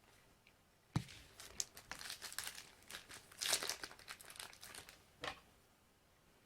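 Crinkling and tearing of a trading-card pack wrapper being handled and opened. It starts with a sharp click about a second in and is loudest in the middle.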